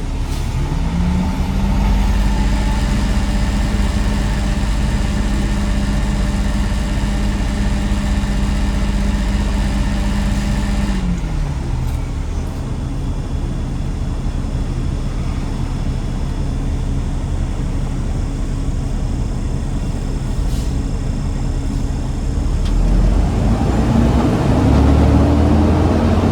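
Garbage truck engine under way: the engine note rises in the first second, holds steady for about ten seconds, then drops off, and climbs again near the end.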